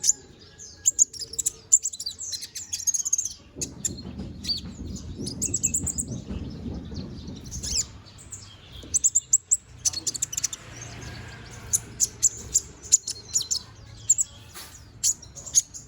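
Caged olive-backed sunbird (konin) chirping busily: rapid runs of short, sharp, high-pitched notes coming in bursts, with a low rumble underneath from about four to eight seconds in.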